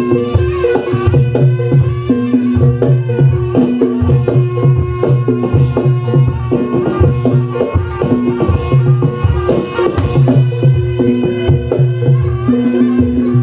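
Live Javanese barongan accompaniment music: drums beating a driving rhythm under gamelan percussion, with a melody line above.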